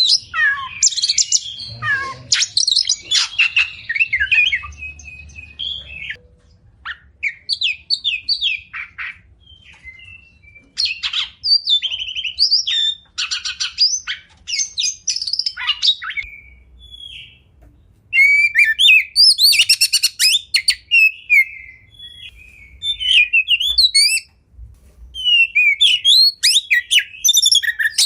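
Oriental magpie-robin (kacer) singing a varied song of whistled phrases, quick chattering trills and rapid-fire repeated notes, in bursts with short pauses between them.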